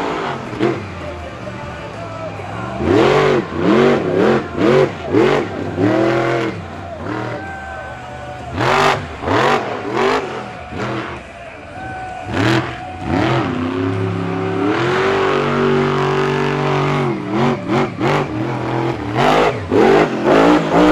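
Monster truck engine revving hard in repeated bursts, its pitch climbing and falling about once a second, with sharp cracks between the revs. About two-thirds of the way through, it is held steady at high revs for a couple of seconds.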